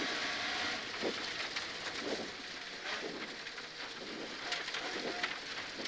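Rally car cabin noise as the car runs on past the flying finish: tyre and road rumble without a clear engine note, with scattered ticks of stones or grit striking the bodywork.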